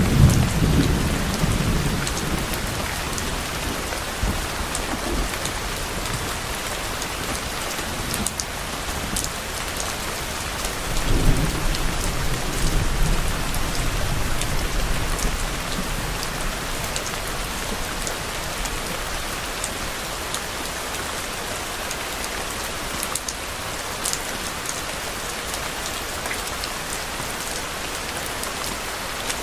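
Steady heavy rain falling, with low rolls of distant thunder: one right at the start and a longer one from about eleven seconds in, dying away over several seconds.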